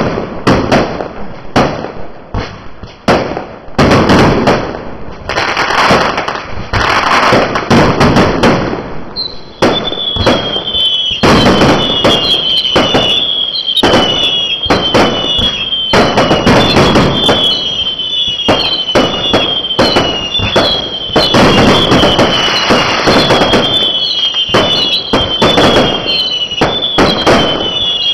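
Fireworks going off in quick succession, a dense run of bangs and crackles. From about a third of the way in, a falling whistle repeats roughly once a second over the bangs.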